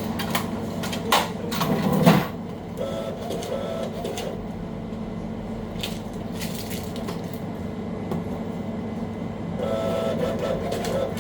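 Fast-food kitchen background: a steady hum of equipment with a few sharp knocks and a short clatter in the first two seconds.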